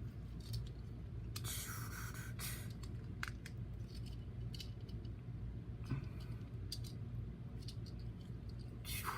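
Plastic Transformers action figure being handled and transformed: scattered small clicks and short scrapes of plastic parts being moved and shifted, with a steady low hum underneath.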